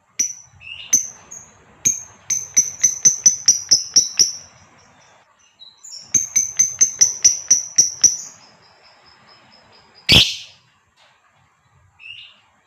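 Female lovebird calling in two rapid runs of sharp, high chirps, about four to five a second, with a pause between them. About ten seconds in there is one louder sudden noise, and a short, softer call comes near the end.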